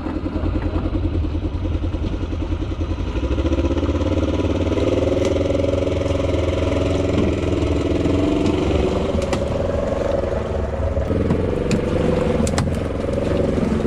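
Side-by-side UTV engine running under throttle, getting louder about three seconds in and then holding a steady drone.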